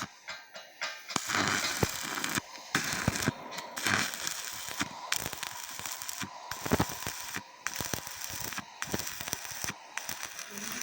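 Electric arc welding: the arc crackles and spits irregularly, breaking off briefly several times.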